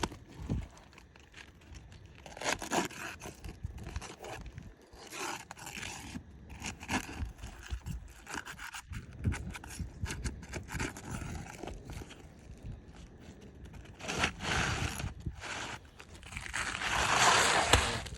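Asphalt roof shingles being pried up and pulled apart: irregular scraping and crackling, with a longer, louder tearing rasp near the end as a brittle shingle's mat breaks.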